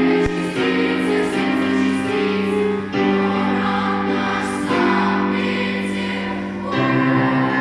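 A choir singing a song in sustained chords with instrumental accompaniment.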